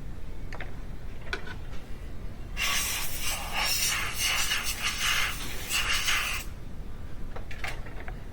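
A steady hiss lasting about four seconds, starting a few seconds in, with a few light clicks before and after it.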